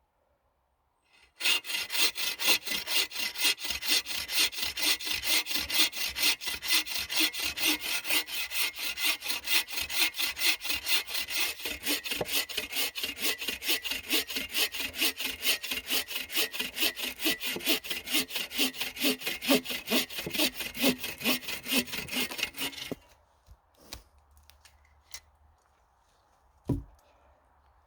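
A hand saw cutting through wood in steady back-and-forth strokes, about two to three a second, for about twenty seconds, then stopping suddenly, followed by a few faint knocks.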